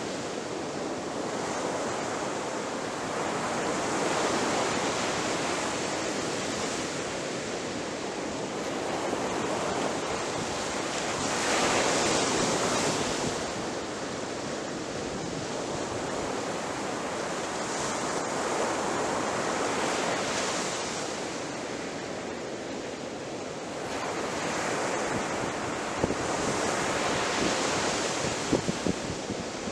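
Ocean surf breaking on a beach: a continuous wash of waves that swells and eases every several seconds, the loudest wave about twelve seconds in, with a few sharp crackles near the end.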